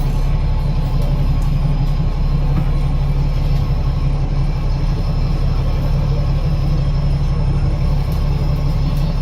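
Double-decker bus drivetrain, an Alexander Dennis Enviro500 MMC with a Cummins ISL8.9 diesel engine and Voith DIWA automatic gearbox, running steadily, heard from inside the cabin as a low drone with a faint steady high whine above it.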